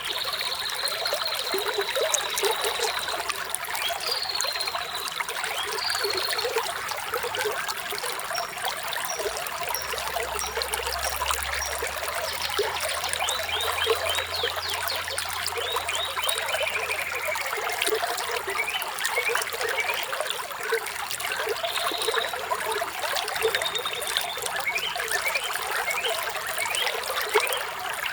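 Water trickling and splashing over rocks in a small stream, with birds chirping: a held whistled note early on, short chirps and a few quick rising calls through the rest.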